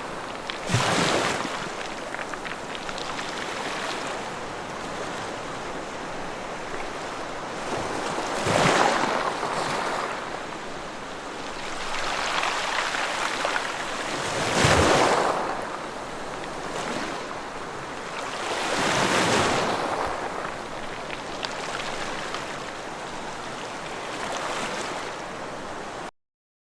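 Ocean waves breaking on a shore, a steady wash of surf with larger waves surging in every few seconds. The sound cuts off abruptly near the end.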